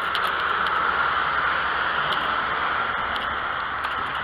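Steady rushing noise of a bicycle ride at speed downhill, air and tyres on the road, with scattered small clicks and rattles.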